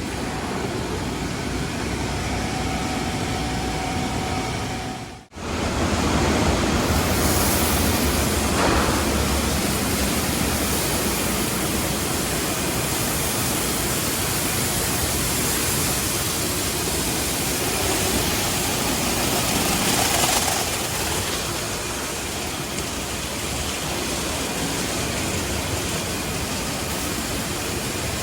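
Automatic car wash tunnel running: a steady rushing noise of water spray and air, broken by one brief drop-out about five seconds in.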